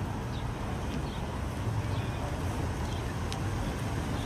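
Steady low rumble of outdoor street background noise, with one short high chirp about three seconds in.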